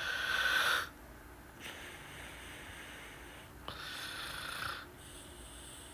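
A man breathing heavily close to the microphone: a noisy, wheezy breath at the start and another about four seconds in.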